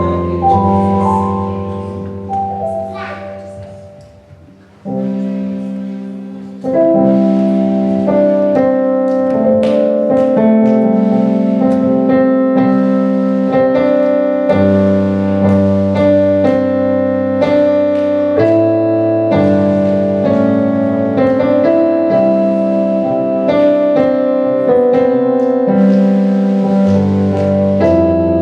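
Church keyboard playing a hymn introduction in slow, sustained chords. A held chord fades away over the first few seconds, and the playing resumes at full strength about seven seconds in.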